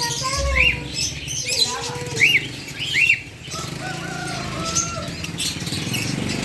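Caged birds chirping with short, sharp chirps a few times, amid the flutter and rustle of wings and small clicks.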